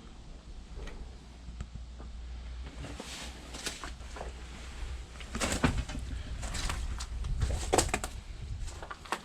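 Irregular rustling and crunching of someone moving through vegetation and debris, with scattered clicks, busiest in the second half, over a steady low rumble on the microphone.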